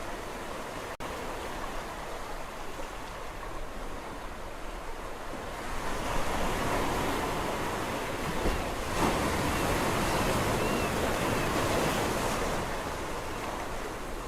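Sea waves washing on a shore as a steady hiss of surf. About halfway through, a wave breaks and the wash swells louder for several seconds, then eases back.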